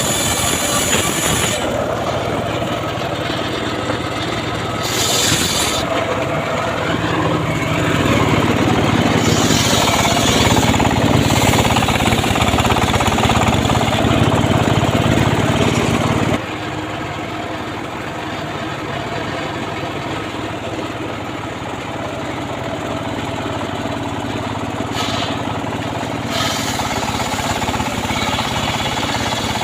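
Homemade circular sawmill (gergaji srekel) running and sawing sengon wood, a loud steady machine noise. It grows louder in the middle and drops suddenly to a lower level about 16 seconds in.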